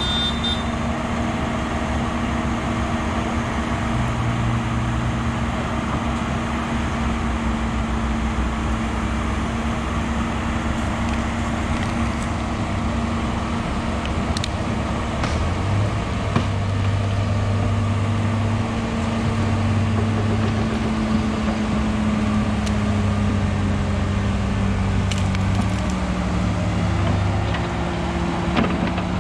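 Heavy diesel machinery engines running steadily under load, the engine note dropping slightly near the end, with a few sharp clicks or knocks.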